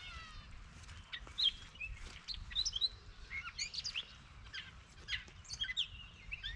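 Several birds chirping and calling, short high notes following one another in quick, irregular succession, over a faint low rumble.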